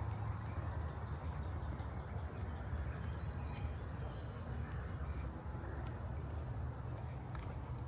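Outdoor park ambience: a steady low rumble with a walker's footsteps on the path and faint bird chirps high above.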